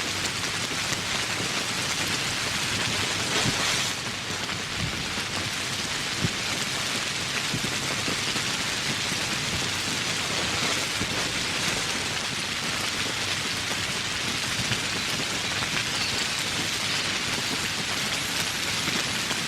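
Steady tropical rain falling: an even rushing hiss with scattered taps of individual drops.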